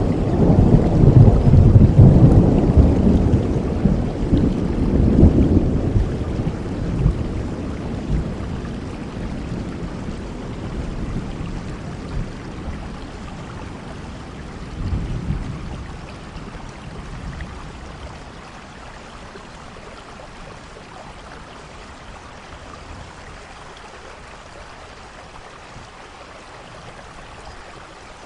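Steady rain with a loud, deep roll of thunder at the start that fades over several seconds, a shorter, fainter rumble about halfway, then rain alone.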